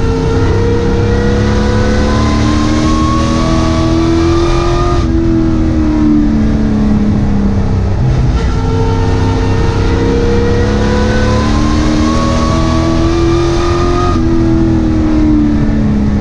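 Sport truck's racing engine heard from inside the cab, running hard under full throttle with its pitch climbing along a straight, then dropping abruptly as the driver lifts for a turn and rising again, twice.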